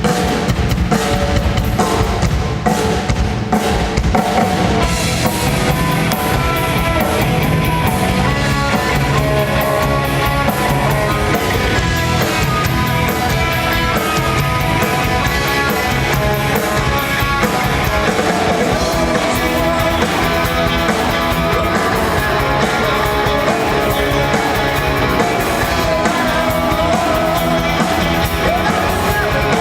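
Rock band playing live, with a drum kit and electric guitar driving a steady beat.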